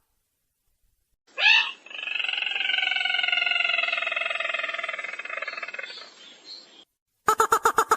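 Recorded bird-lure call of the sintar merah: a short rising note, then a long rapid rattling trill lasting about five seconds that slowly falls in pitch and fades out. Near the end a fast run of short, sharp, evenly spaced notes begins.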